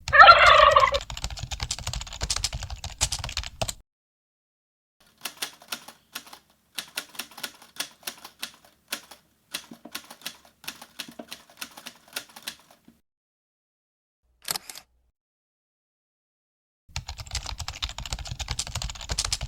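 Keyboard-typing clicks, most likely a typing sound effect laid over the video: a dense run of keystrokes for the first few seconds, sparser single keystrokes through the middle, and another dense run near the end, with dead silence between the runs.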